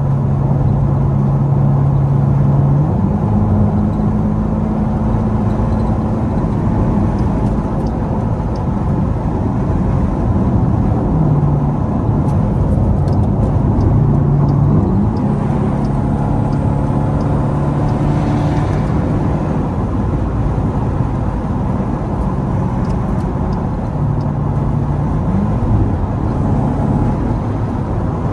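Straight-piped Dodge Durango V8 exhaust droning at highway speed, heard from inside the cabin over steady road noise. Its pitch steps up and down a few times as the throttle changes.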